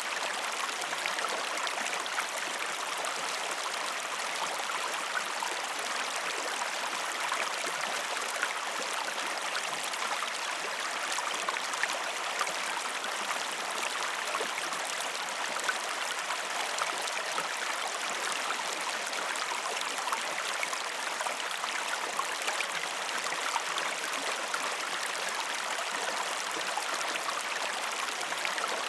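Waterfall: a steady, even rush of falling water with fine splashing and no change in strength.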